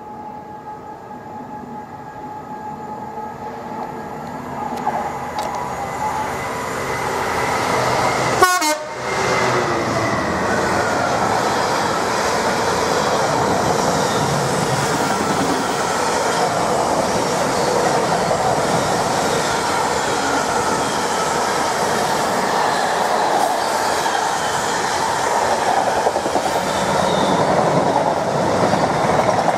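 Class 66 diesel locomotive hauling a container freight train, approaching and passing at speed. Steady tones sound as it comes closer and the sound builds. A sharp blast of air hits as the locomotive passes about eight seconds in. After that comes the steady rumble and clatter of the container wagons rolling by.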